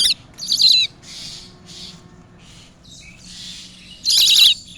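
Small bird giving loud, high, harsh warbling calls in short bouts: two near the start and another about four seconds in, with fainter calls between.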